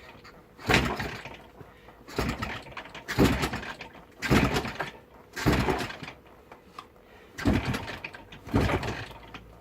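Jawa 350 two-stroke twin motorcycle being kick-started: seven hard kicks about a second apart, the engine turning over on each without catching. The owner suspects no spark, with the kill switch possibly still on.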